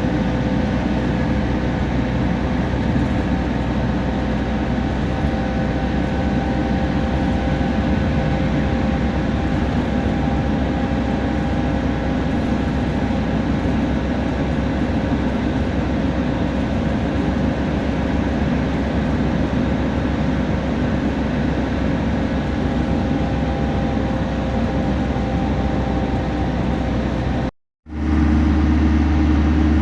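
Temsa Prestij SX midibus running at steady speed: constant engine and drivetrain noise with faint steady whines over it. Near the end the sound cuts out for a moment and comes back as a louder, deeper steady hum.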